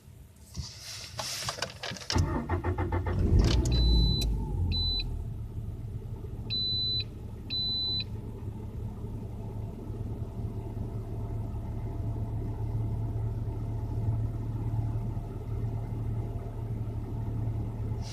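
Lada Granta's 1.6-litre 16-valve VAZ-21126 four-cylinder engine cold-started in winter: it cranks for about a second and a half, catches about three seconds in, then settles into a steady fast idle. Four short high beeps from the car sound in the seconds after it starts.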